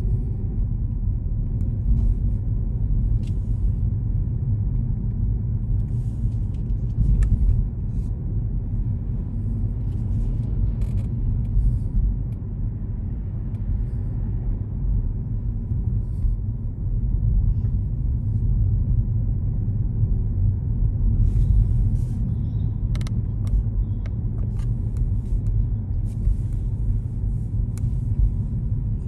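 A car being driven: a steady low rumble of road and engine noise, with faint scattered clicks and rattles.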